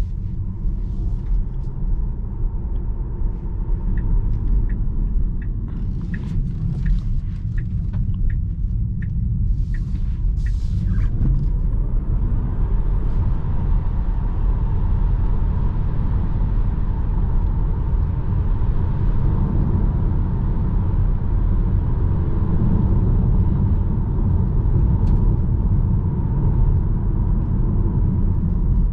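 2021 Tesla Model 3 Performance (dual-motor electric) on the move: steady tyre and road rumble, with a few light ticks in the first ten seconds. About 11 seconds in, a rising whine comes in as the car picks up speed, and the road and wind noise grows fuller after that.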